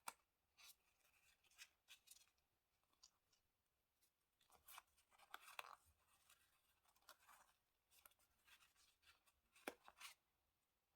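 Faint scissors snipping paper amid light paper rustling and handling, with a sharp tap right at the start and another about ten seconds in.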